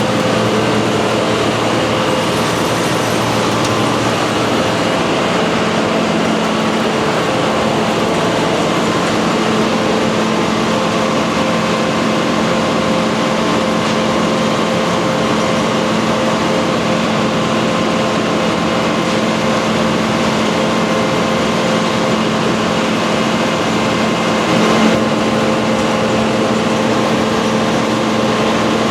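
John Deere 9500 combine running steadily with its separator engaged, a constant mechanical drone with steady humming tones, the diesel warming up after a winter cold start. It briefly gets a little louder near the end.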